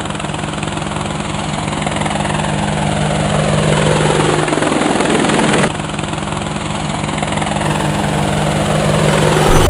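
Fishing boat engine running steadily, its low hum under a loud rushing noise, with an abrupt change a little past halfway.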